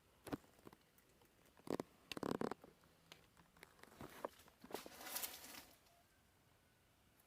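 Scattered knocks and clicks, loudest in a cluster about two seconds in, with a short stretch of rustling near five seconds.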